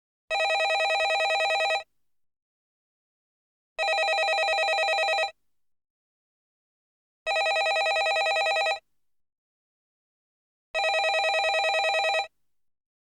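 Landline telephone bell ringing: four rings of about a second and a half each, with a fast trill, separated by pauses of about two seconds.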